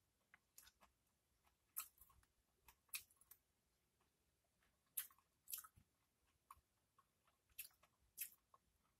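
Doritos tortilla chips crunching as they are bitten and chewed, in short, sharp crunches every second or so, some much louder than others.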